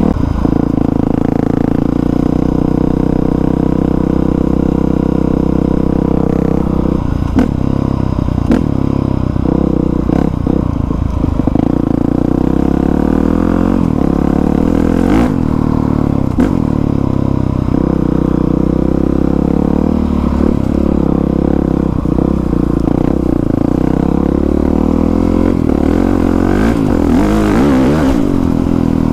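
Dirt bike engine running while riding along a trail, its revs rising and falling a little with the throttle. A few knocks and clatters come through from about seven seconds in.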